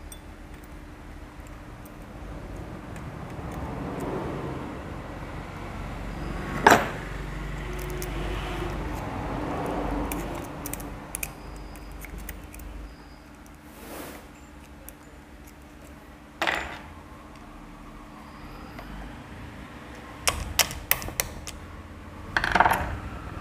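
Metal engine parts and hand tools clinking and knocking during motorcycle engine assembly, as the timing sprocket and chain go on. A sharp clank about seven seconds in, another a little past the middle, and a quick run of light metallic clicks followed by a clank near the end, over a faint steady hum.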